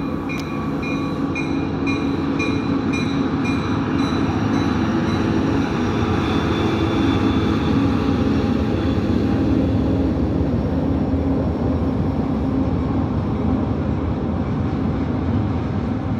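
Union Pacific diesel locomotives pass close by, followed by a long string of loaded double-stack container cars rumbling and clattering steadily over the rails. During the first few seconds a short high ringing repeats about three times a second.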